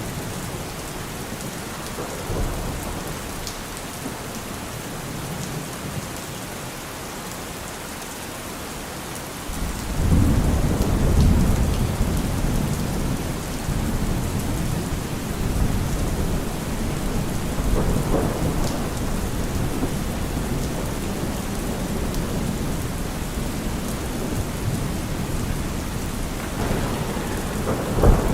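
Steady rain falling, with rolling thunder: a low rumble swells up about a third of the way in and keeps rolling, and a sharper, louder thunderclap comes near the end.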